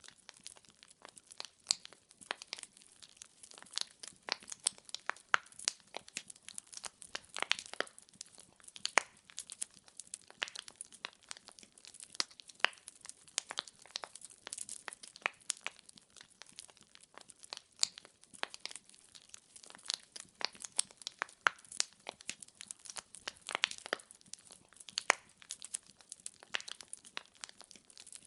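Wood fire in a fireplace, logs crackling with many sharp irregular pops and snaps.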